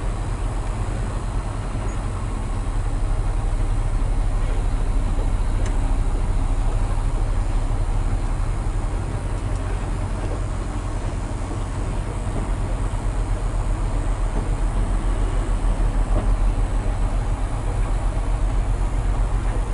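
Hino 500 FM320TI truck's diesel engine running, heard from inside the cab as a steady low rumble that eases a little and builds again about two thirds of the way through.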